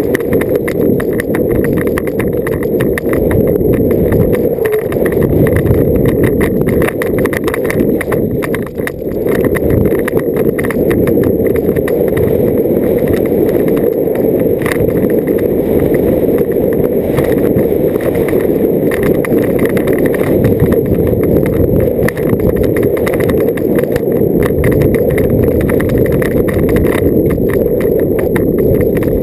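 Downhill mountain bike running over a rough dirt trail: a continuous loud rumble of tyres and wind with dense rattling and clattering from the bike.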